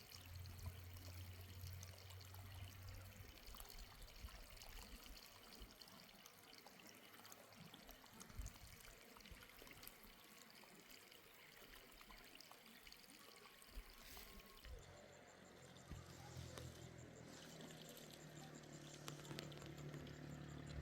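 Irrigation water trickling and pouring faintly. About two-thirds of the way through, a low steady hum joins in underneath.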